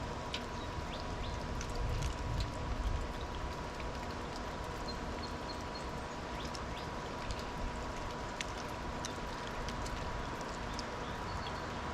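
Outdoor ambience at snowy birdfeeders: a steady background hiss with many scattered light ticks and a few short, faint, high chirps from small birds. A thin steady tone runs underneath.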